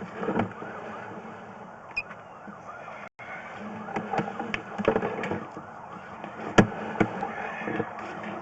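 A siren wailing in the distance, rising and falling in pitch, with scattered sharp clicks and knocks.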